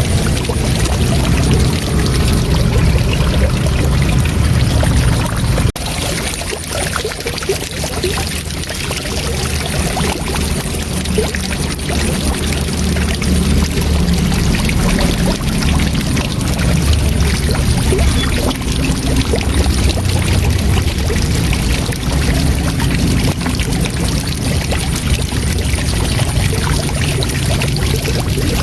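Waterfall: a steady, full rush of falling water, heavy in the low end, with a momentary break about six seconds in.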